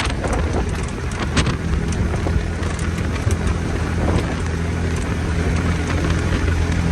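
Engine running steadily, its low hum growing stronger about two seconds in, under a rushing wind noise.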